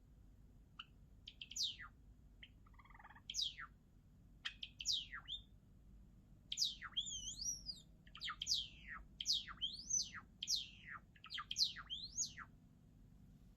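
Java sparrow singing: a string of short, sharp chirping notes, with a lower warble about three seconds in, quickening into a denser run from about halfway through.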